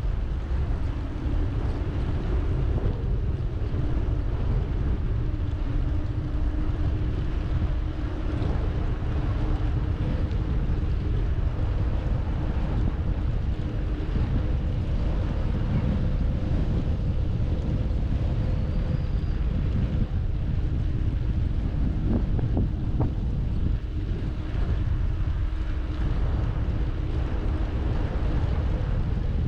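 Wind buffeting the microphone of a camera on a moving bicycle, a steady low rumble, with a faint steady hum underneath.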